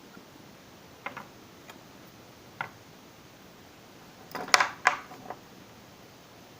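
A few light clicks, then a short cluster of sharper knocks and clatter about four and a half seconds in, over low hiss.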